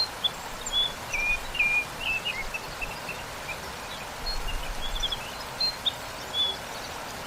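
Steady rush of a waterfall with small songbirds chirping over it: quick, short high chirps in runs, busiest in the first couple of seconds and again a little past the middle.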